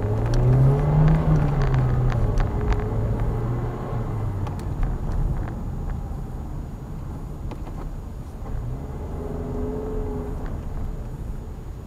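Car engine heard from inside the cabin as the car pulls away from a stop: the engine note rises in pitch over the first second or so, then settles and fades as the car rolls on, picking up again about nine seconds in, with scattered light clicks and rattles.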